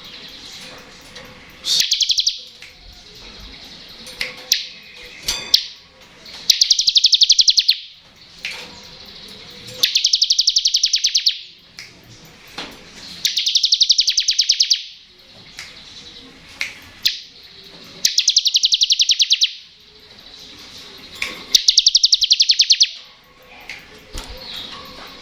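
Bar-winged prinia (ciblek) singing its buzzing 'ngebren' song: a high, very rapid buzzing trill about a second and a half long, given six times at intervals of three to four seconds, with short soft chips in between.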